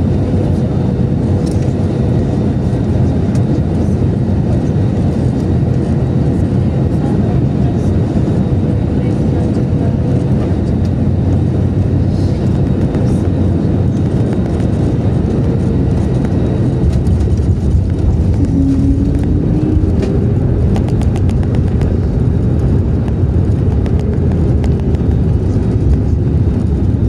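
Steady cabin noise of an Airbus A321neo in flight: engine and airflow noise heard from inside the cabin, with a faint steady hum and a short rising whine about two-thirds of the way through.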